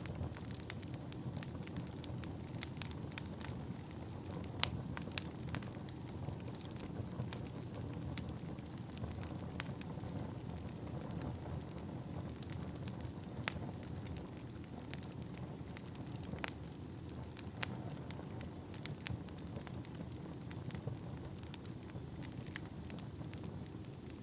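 Wood fire burning in a fireplace: a steady low rumble of flames with frequent irregular sharp crackles and pops, one louder pop about five seconds in. A faint high whistle sliding slightly downward comes in near the end.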